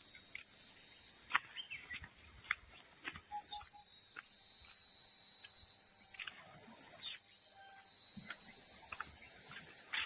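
Loud, high-pitched insect chorus. It cuts out about a second in, comes back near the middle, drops again briefly, then resumes.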